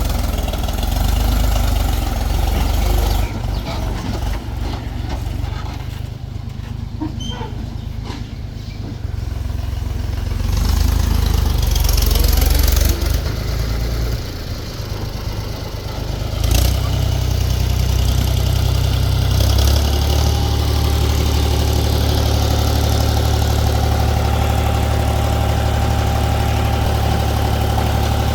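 Heavy diesel machinery engine running, its loudness dipping and rising through the first half as the load changes, then running steadily for the rest.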